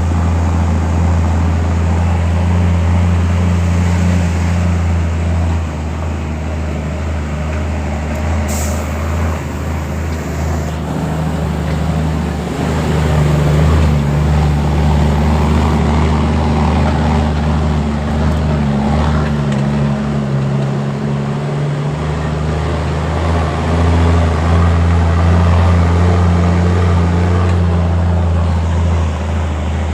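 Heavy diesel engine of mining machinery running steadily with a deep, even hum that shifts in pitch now and then. A brief sharp hiss comes about eight seconds in.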